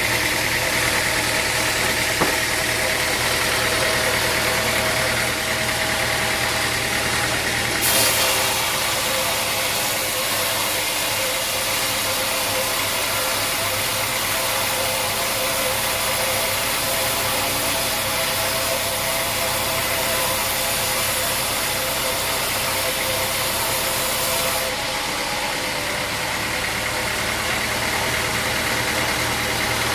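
A sawmill's engine running steadily. A higher hiss joins it about eight seconds in and drops away again about twenty-five seconds in.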